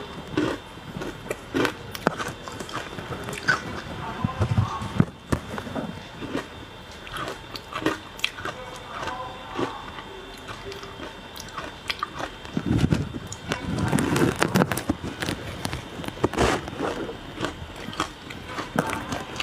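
Pieces of ice, dusted with matcha powder, being bitten and crunched between the teeth and chewed, with repeated sharp cracks. The crunching is louder and denser for a couple of seconds about two-thirds of the way through.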